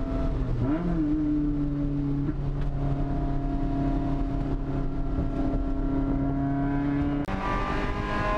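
Four-cylinder engine of an NC Mazda MX-5 Miata, heard from inside the cabin while lapping a race track: it holds a nearly steady pitch under load through a long corner, then cuts out sharply for an instant about seven seconds in, a gear change, and the pitch climbs again as the car accelerates.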